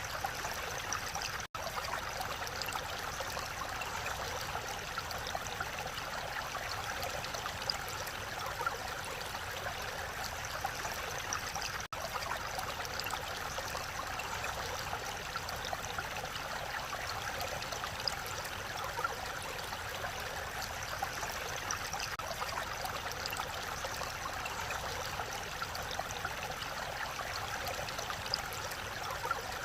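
Mountain valley stream flowing steadily, an even rush of water. The sound cuts out for an instant twice, about a second and a half in and again near twelve seconds.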